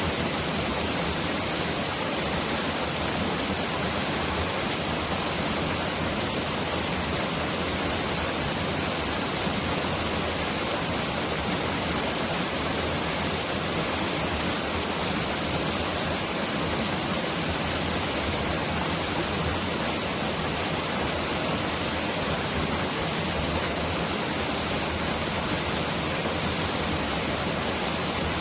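Mountain stream rushing over rocks: a steady, even wash of water noise with no change, close to the sound of heavy rain.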